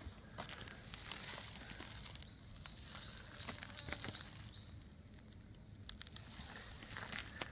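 Songbird calling a run of short high hooked notes, about two to three a second, starting about two seconds in and stopping before the end. Scattered light footsteps are heard under it.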